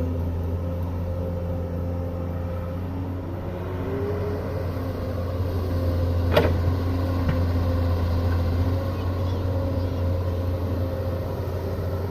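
Excavator's diesel engine running steadily, with one sharp knock about six seconds in.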